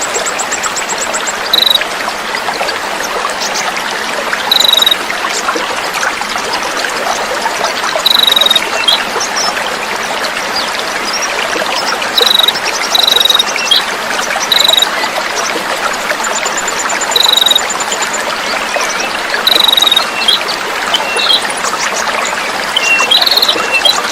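Small songbirds' short sharp chirps, repeating every few seconds, with a few rapid trills, over a steady trickle of flowing water. This is a masteran tutoring track of dense 'coarse fill' calls.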